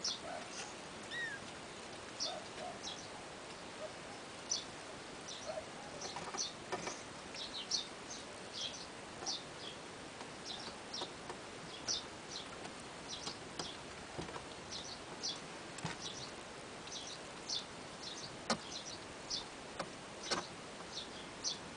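A rapid series of short, high-pitched squeaks from small animals, about two a second, with a few fainter, lower mews in the first few seconds and occasional soft knocks.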